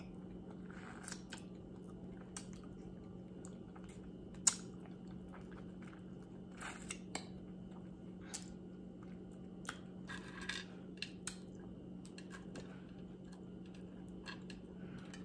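Close-up mouth sounds of a person eating barbecue ribs: chewing, with scattered wet clicks and one sharper click about four and a half seconds in, over a steady low hum.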